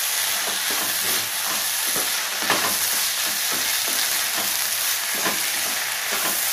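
Okra palya with masala sizzling in a pan as it fries, while a spatula stirs and scrapes through it about twice a second.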